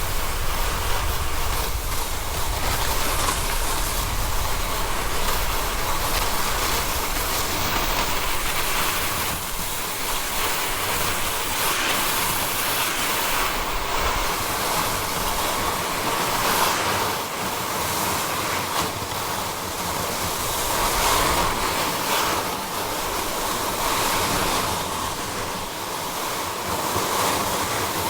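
Snowboard sliding and carving over snow: a continuous scraping hiss that swells and fades with the turns, with wind on the microphone.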